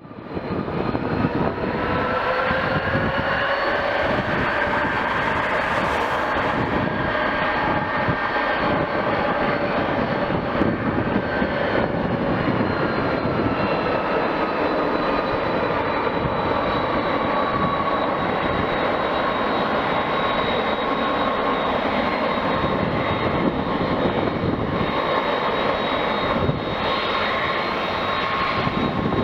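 Airbus A330-300's twin Pratt & Whitney PW4000 turbofan engines running: a steady jet roar with a whine whose pitch rises slightly at first, then slowly falls.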